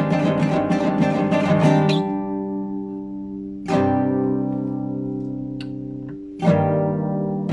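Classical guitar improvising: a fast run of plucked single notes, then a chord struck about two seconds in that rings and fades. Two more chords follow, near four seconds and near six and a half, each left to ring out.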